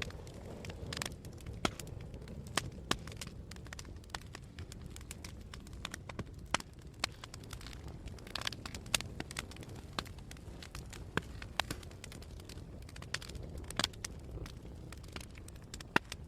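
Campfire burning, the wood crackling with frequent sharp pops at irregular intervals over a steady low rumble of the flames.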